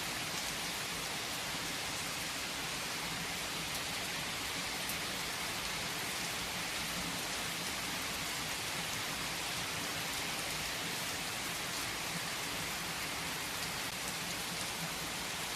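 Steady rain falling, an even hiss with scattered louder drops.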